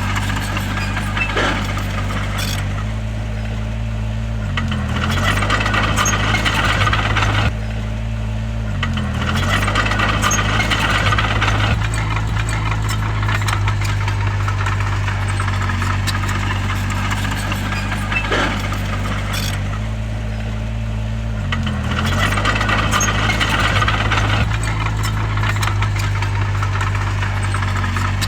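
Heavy diesel engine of earthmoving machinery running steadily. Its note dips briefly under load and recovers three times, with stretches of rattling clatter coming and going over it.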